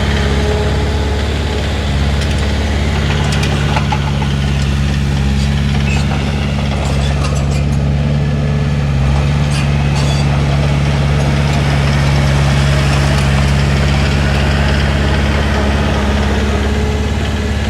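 Heavy diesel engine of a Komatsu D31P bulldozer running steadily at an even speed, with a few faint clicks and clanks over the drone.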